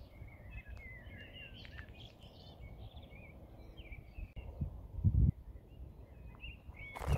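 Small birds chirping and twittering in quick, varied calls, over a low rumble; about five seconds in, a short, louder low rumble stands out.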